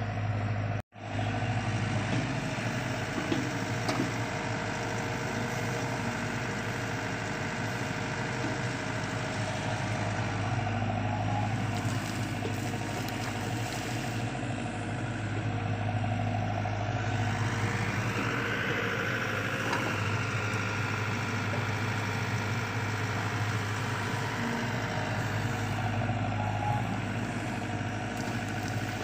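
LiuGong CLG908E excavator's diesel engine running steadily. The sound cuts out for an instant about a second in, and a whine rises and falls about two-thirds of the way through.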